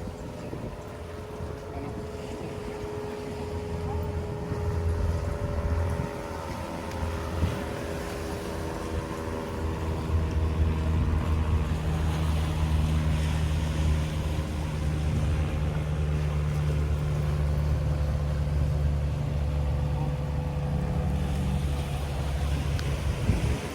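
An engine running with a steady drone and hum, its pitch shifting slightly about halfway through.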